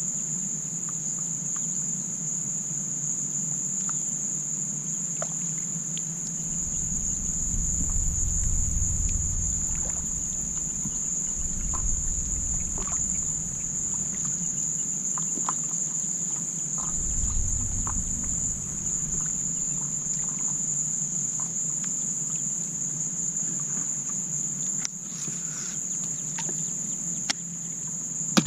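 Steady high-pitched drone of insects, such as crickets, in a marsh, with scattered light clicks and knocks from the kayak and tackle over a low rumble.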